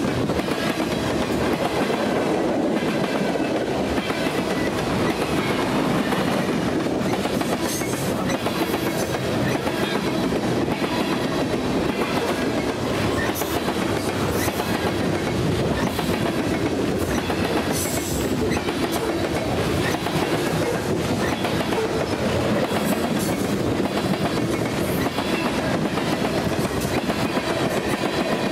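Freight train cars (boxcars, covered hoppers and tank cars) rolling past close by: a steady rumble and clatter of steel wheels on the rails, with a few brief high-pitched squeals.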